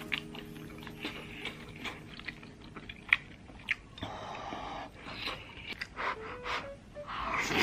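Close-miked chewing of a mouthful of rice and scrambled egg, with small sharp clicks of a metal spoon against the bowl. A louder breathy noise comes near the end.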